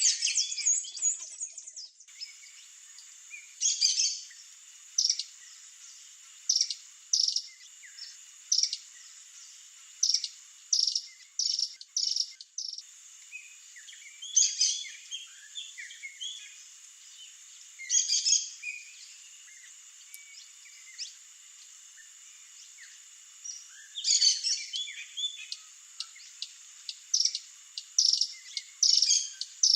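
Short, sharp, high bird chips, some single and evenly spaced, others in quick twittering clusters near the start, in the middle and near the end. A steady high insect hum lies underneath.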